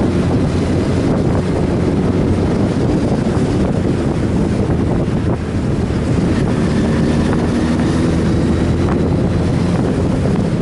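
Sport motorcycle engine running while riding at speed, its note half buried under heavy wind noise on the microphone.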